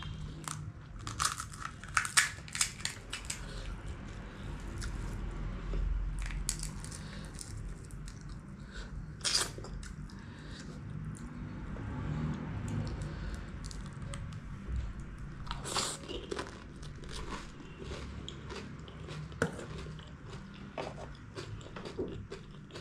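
Close-up chewing and crunching of crisp fried pani puri shells (golgappa), with sharp crackling crunches in clusters: a busy run near the start, single crunches in the middle, and another burst about two-thirds through.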